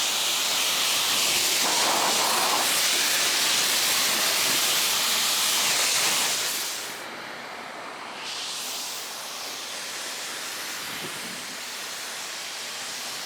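Water jet from a Kranzle K1622 electric pressure washer rinsing dust off a boat's gel-coat hull, a steady loud hiss. About six seconds in it drops noticeably quieter as the spray moves off and keeps hissing more softly.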